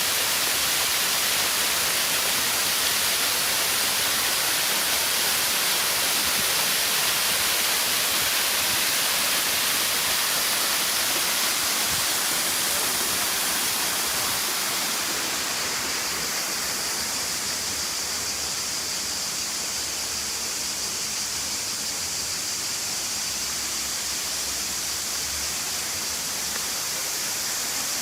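Rushing water of the Platanistos stream's waterfall, a steady hiss. It drops a little in level and changes tone about halfway through.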